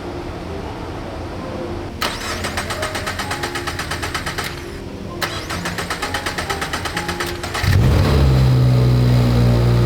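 Car engine being started after an oil change and oil pan reseal: the starter cranks in two spells of about two and a half seconds each, then the engine catches near the end and runs steadily, louder than the cranking.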